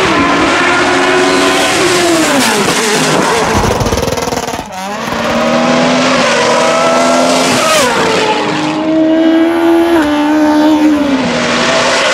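Hillclimb race car engines running at high revs, the engine note dropping sharply in pitch several times, with a brief break in the sound about four and a half seconds in.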